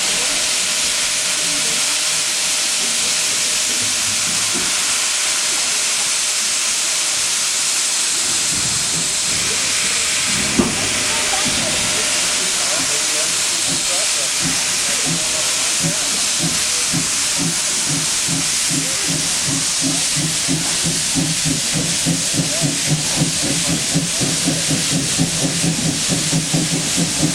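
Heisler geared steam locomotive working: a loud, steady hiss of steam, with a single sharp knock about ten seconds in, then from about halfway a fast, even exhaust chuff that builds to about three beats a second as the engine works under load pushing a passenger train.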